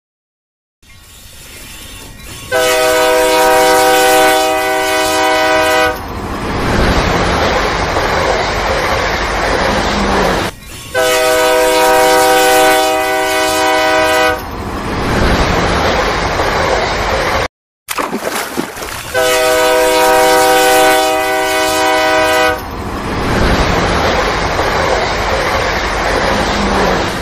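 Train horn sounding a held chord of several tones for about three and a half seconds, followed by the steady running noise of the train. The same sequence repeats three times, starting near the beginning, about eleven seconds in and about nineteen seconds in, like a looped sound effect.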